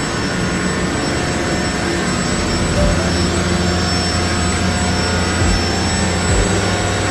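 Loud, steady drone of a ship's engine-room machinery in the fire room, a constant noise with several steady tones and a low hum that grows stronger a couple of seconds in.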